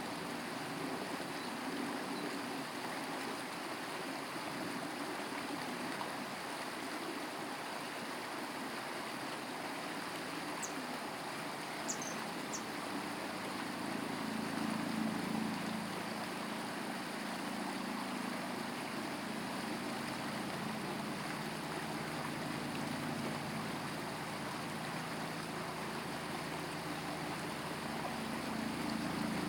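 Steady rush of flowing stream water. A low drone swells about halfway through and again at the end, and a few faint high ticks come a little before the middle.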